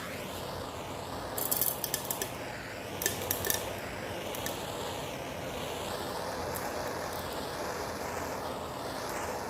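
Gas torch flame hissing steadily, heating diesel fuel to try to make it burn, with two short bursts of clicking and crackling early on.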